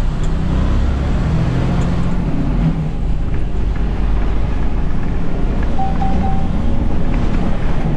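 Semi truck's engine and road noise, a steady low rumble heard inside the cab while driving. A short run of high beeps sounds about six seconds in.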